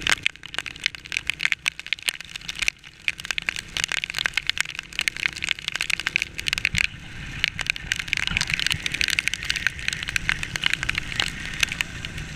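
Heavy rain striking a motorcycle rider's plastic rain poncho and the camera in dense, irregular taps, over a steady rush of noise from riding through the downpour.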